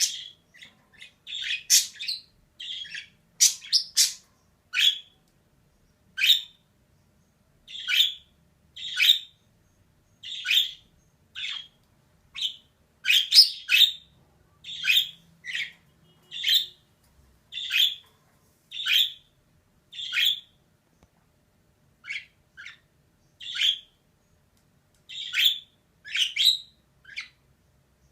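Female budgerigar giving short, sharp chirps and squawks, about one a second, with a longer pause a little past the middle.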